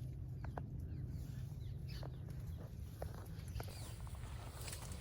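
Quiet outdoor ambience: a steady low rumble with a few short, scattered chirps or ticks.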